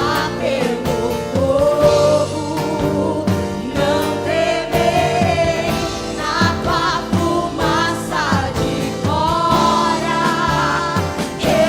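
Live worship music: sung melody over a full band with a steady beat.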